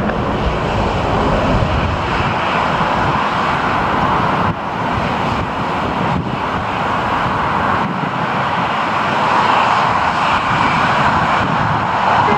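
Jet airliner engines running as a steady, loud noise that dips briefly about four and a half seconds in.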